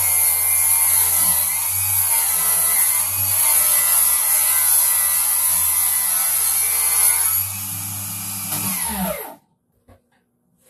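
Circular saw cutting through wood. About seven and a half seconds in it eases off, and its pitch falls as the blade winds down, then it stops suddenly just after nine seconds, followed by a couple of faint knocks.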